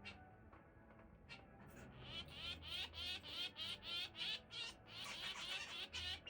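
Zebra finch singing: a few soft chirps, then about two seconds in a loud, fast run of repeated buzzy notes that carries on to the end.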